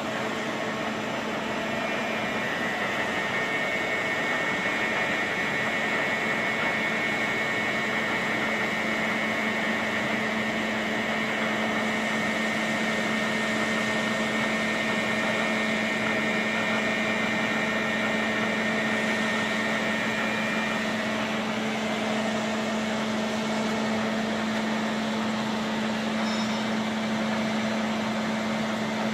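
Caser gantry milling machine running, a steady machine hum and noise with several steady tones.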